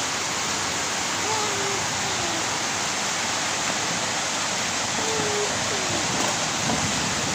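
Heavy rain pouring steadily: an even, unbroken hiss of a downpour.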